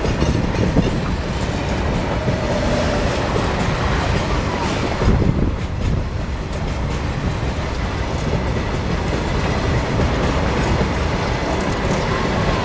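Freight train wagons rolling past close by: a steady rumble of wheels on the rails, with intermittent knocks and clatter.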